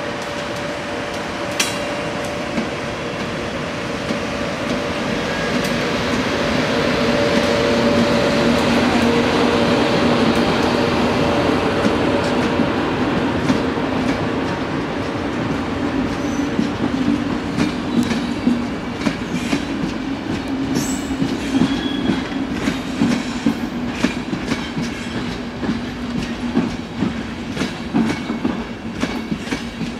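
An FS E.652 electric locomotive pulling a train of empty passenger coaches past at low speed: a steady hum that grows loudest about eight seconds in, then the coaches' wheels clicking and clattering over the rail joints through the rest of the pass.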